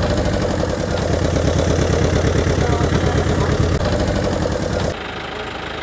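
A motor running steadily with a rapid, even pulse, dropping suddenly in level about five seconds in.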